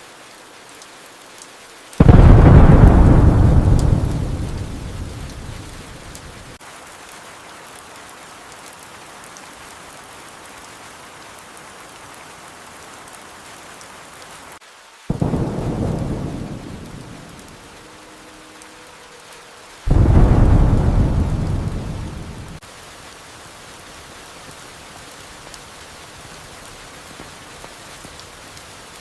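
Steady rain with three claps of thunder, each starting suddenly and rolling off over a few seconds: the first about two seconds in and the loudest, a weaker one midway, and another soon after.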